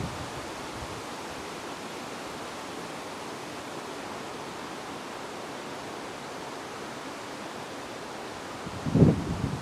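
Steady wind blowing, an even rushing hiss, with a brief low buffet of wind on the microphone near the end.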